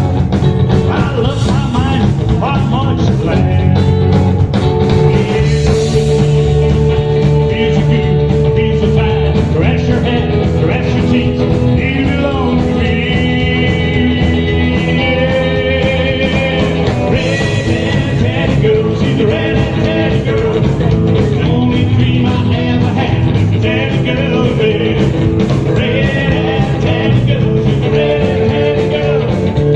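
Live rock and roll band playing a song: electric guitar, bass and drums on a steady beat, with a singer.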